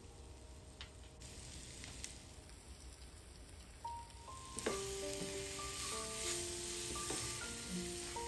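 Potatoes sizzling as they fry in an oiled non-stick pan, with a few light clicks. From about halfway, background music of short pitched notes plays over the sizzle.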